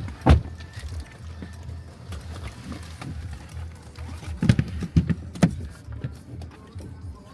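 Low steady rumble inside a car, with music playing and several sharp knocks and bumps. The loudest knocks come about a third of a second in, in a cluster past the middle, and at the very end.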